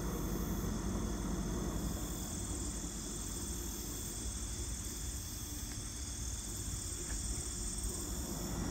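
Steady, high-pitched chirring of insects, like crickets, over a constant low rumble of background noise.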